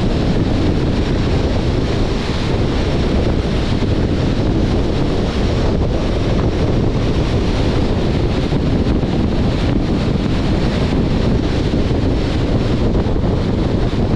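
Steady wind rush on a car-mounted microphone as a 2021 Jeep Compass drives at speed, with low road and tyre noise underneath.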